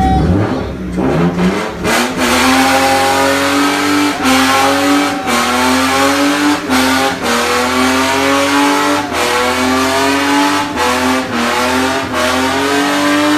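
A car engine revving hard at high speed, its pitch climbing and then dropping back abruptly again and again, as when a driven car is pushed on and off the throttle.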